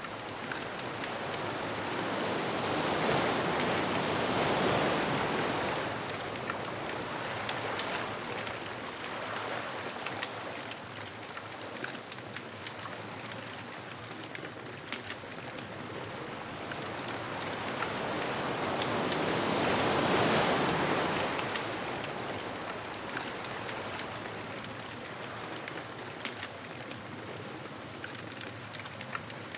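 Ocean waves breaking and washing up the beach, swelling twice over a steady hiss of surf, with fine crackles scattered throughout.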